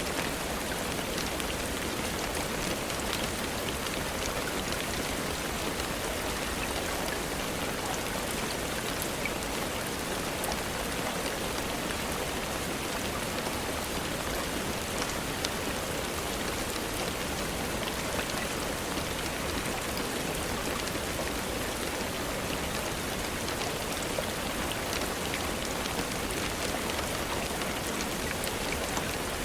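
Steady rainfall, an even hiss of rain on surfaces, with faint scattered ticks of single drops or small crackles throughout.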